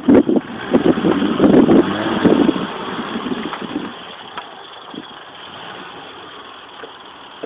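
BMW E30 saloon's engine running hard as the car is driven in tight circles, loud and rough for about the first three seconds, then quieter and steadier.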